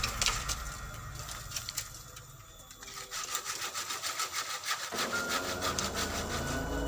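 A saw cutting through a bamboo stem in quick, even back-and-forth strokes. It dips quieter about two seconds in, then picks up again.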